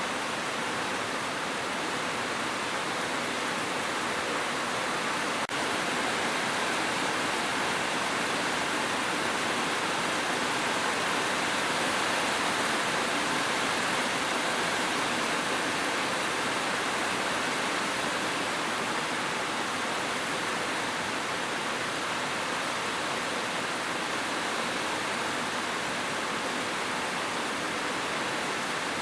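Steady, even hiss of heavy rain with no separate drops standing out, and a faint click about five and a half seconds in.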